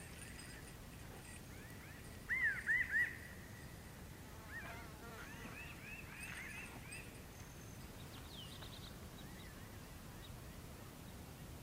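Birds chirping over a steady low background hiss: three loud arched chirps about two seconds in, a run of quieter chirps around the middle, and a few higher ones later on.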